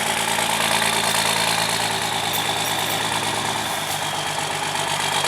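Tow truck engine idling steadily between pulls on a heavy rock.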